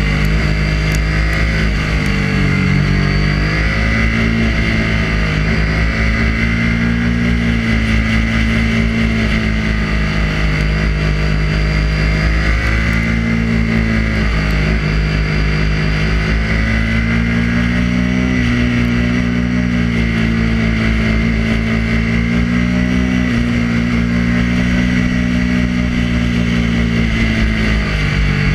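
Triumph Daytona 675's three-cylinder engine running hard at track speed, its pitch dipping and climbing a few times with throttle and gear changes, under a steady rush of wind on the fork-mounted camera.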